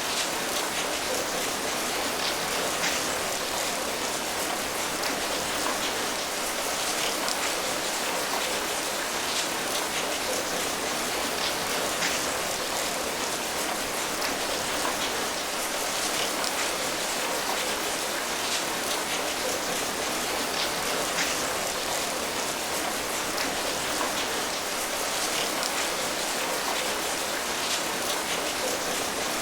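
Steady rain falling, an even hiss with scattered patter of individual drops landing on a surface.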